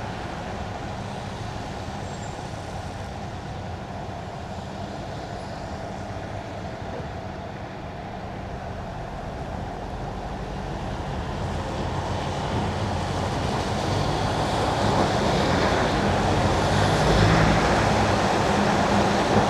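Car driving on wet winter asphalt: steady tyre hiss and road noise over a low engine hum, growing louder through the second half.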